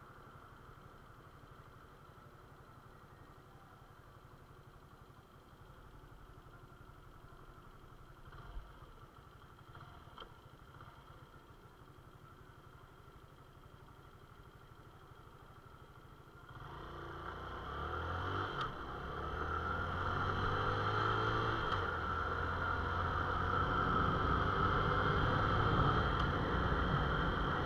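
Suzuki Intruder motorcycle engine idling faintly at a stop, then about 16 seconds in it pulls away and gets much louder as it accelerates, staying loud while riding.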